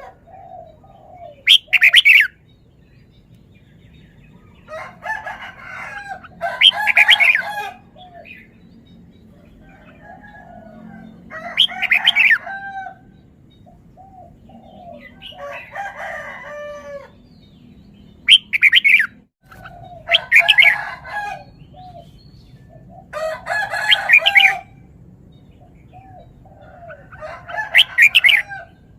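Caged red-whiskered bulbul singing loud, repeated song phrases about every four seconds, with soft short notes between them.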